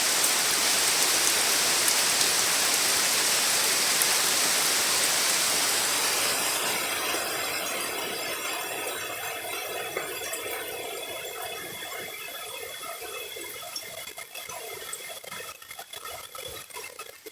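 Heavy rain falling steadily, then dying away over about ten seconds to scattered drips and patter.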